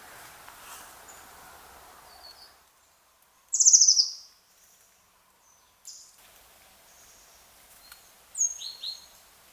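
Wild songbirds calling: a loud, fast, falling trill about three and a half seconds in, and a few shorter high chirps near the end. A faint steady hiss underneath stops suddenly early on.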